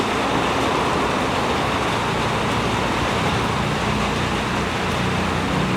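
Heavy rain pouring steadily, a dense even hiss. A low steady hum joins it about halfway through.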